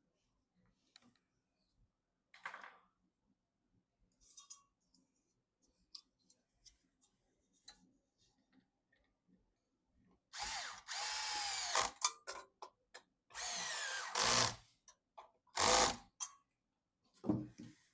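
Small electric screwdriver running in two short bursts about ten seconds in, its motor pitch sliding as it spins, with sharp clicks and knocks of parts and screws between and after the bursts. Before that there are only faint scattered clicks.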